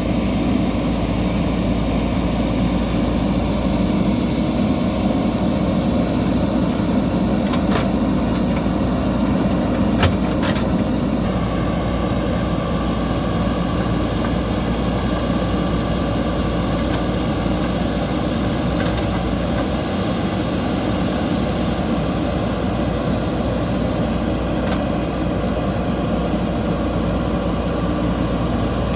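JCB backhoe loader's diesel engine running steadily at work, with a few sharp clanks around a third of the way in. Just after them the engine's low note drops back and a thin high whine carries on.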